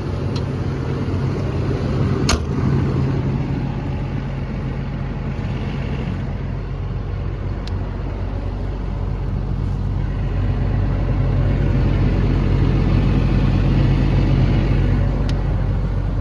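Cummins diesel engine of an XCMG XE210CU excavator running steadily at idle, with a single sharp click about two seconds in.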